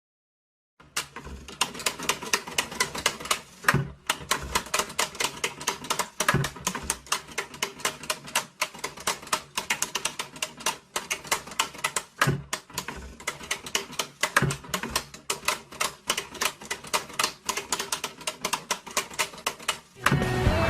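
Rapid mechanical clacking: sharp clicks at about four or five a second in irregular runs with brief pauses, like typewriter keys being struck. It begins about a second in.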